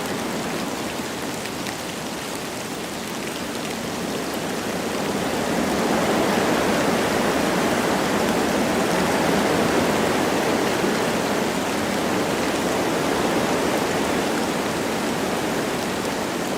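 Wind blowing through forest trees with light rain falling, a steady rushing that swells a few seconds in and stays fuller.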